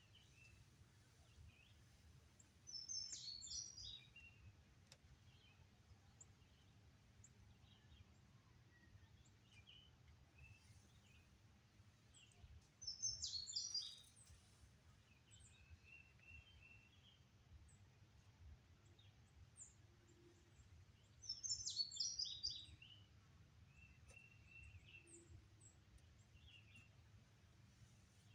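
Wild songbirds singing: one bird gives a short, high song phrase three times, about every nine seconds, with faint scattered chirps from other birds in between.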